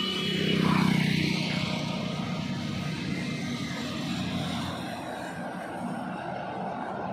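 Heavy truck passing close by on a highway: its engine hum is loudest about a second in, then fades into a steady rush of traffic and tyre noise.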